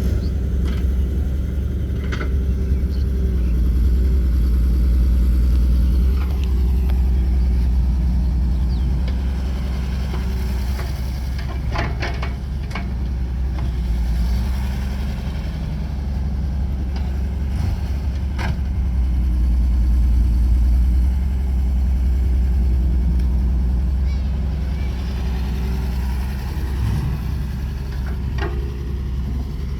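Heavy diesel engines of tractors and a backhoe loader running steadily, their level swelling and easing, with a few sharp knocks along the way.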